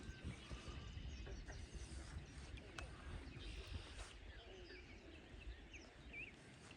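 Faint outdoor ambience of small birds chirping and calling, with short rising and falling notes, over a low rumble of wind on the microphone. Two faint ticks come about three and four seconds in.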